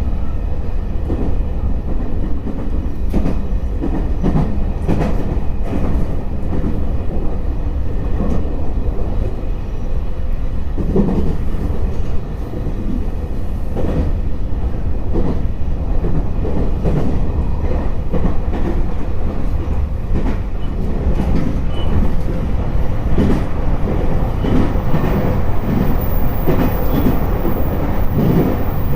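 Electric multiple unit (JR East E721-500 series) running along the line: a steady rumble of wheels and running gear, with wheels clacking over rail joints every second or so.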